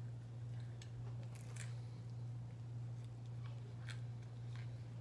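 Chewing a bite of pizza with the mouth closed, a few soft crisp crunches and mouth clicks now and then, over a steady low hum.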